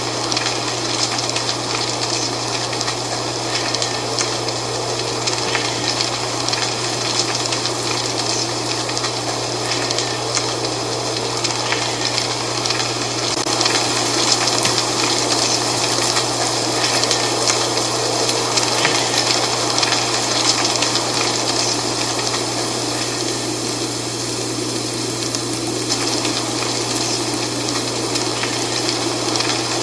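Dry fall leaves rustling in the wind: a steady dense crackle over a continuous rush of wind.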